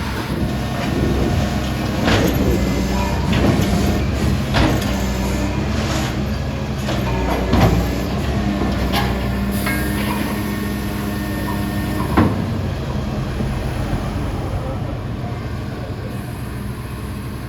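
Heavy machinery engine running steadily on a construction site, with repeated sharp metallic clanks and knocks, the loudest about 7.5 and 12 seconds in.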